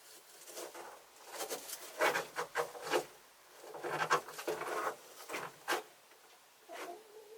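Chickens scratching and pecking in dry litter: a run of short, irregular rustling and scratching strokes, thickest in the middle and thinning out near the end.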